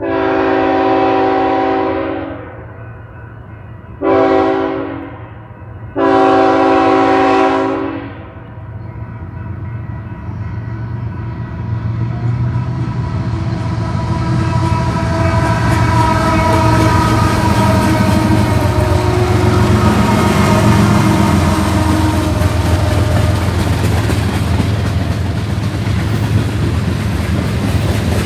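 BNSF freight train's diesel locomotive horn sounding a long, a short and a long blast for a grade crossing, a chord of several tones. Then the locomotive and its freight cars roll past, the rumble growing louder and staying steady.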